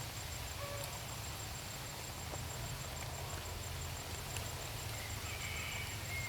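Outdoor ambience: a steady low rumble and hiss with a thin high-pitched whine, and a few short faint chirps near the end.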